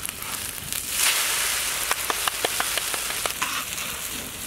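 Egg omelettes sizzling on a hot flat metal griddle, the hiss swelling about a second in, with a few short clicks partway through as a spatula turns them.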